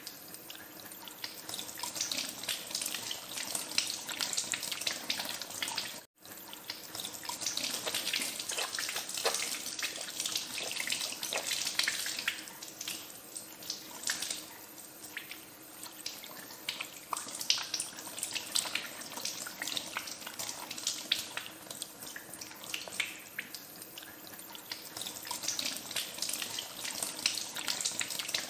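Tap water running into a sink, with uneven splashing as hands are washed under the stream. The sound cuts out for a moment about six seconds in, then carries on.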